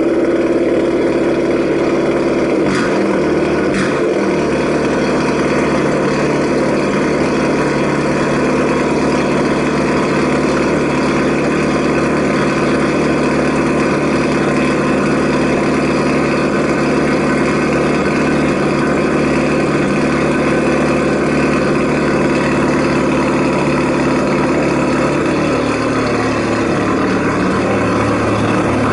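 VW Scirocco's engine idling steadily, heard at its four exhaust tips. Two faint clicks come about three and four seconds in.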